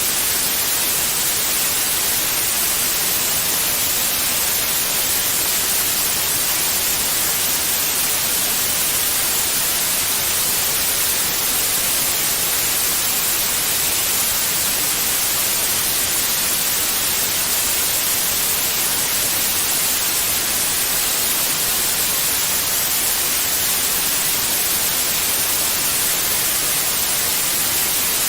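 Steady white noise: an even, unchanging hiss, brightest in the high end, played as a soothing sound for babies.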